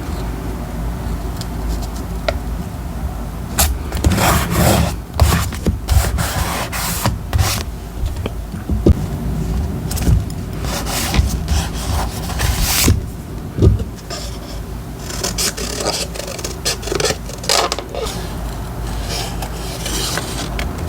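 Paper and stationery being handled on a desk while a journal page is decorated: irregular bursts of rubbing and scraping, with quieter stretches in between.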